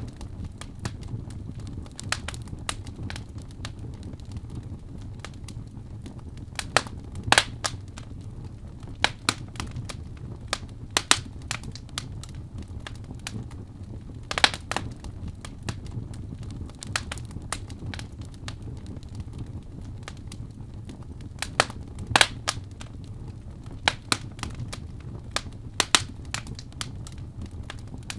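Wood fire burning in a fireplace: a steady low rumble of the flames with irregular sharp crackles and pops every second or two.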